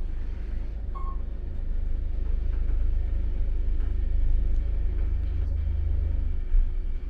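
Deep, steady rumble that builds over the first few seconds, with a short high beep about a second in and a brief knock near the end.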